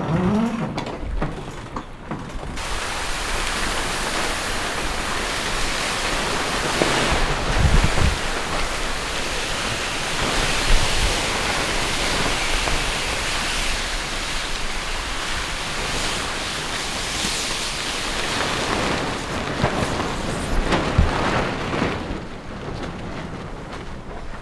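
Steady rushing noise of wind and water on a racing sailboat under way, starting abruptly about two seconds in and easing off near the end, with a few low thumps.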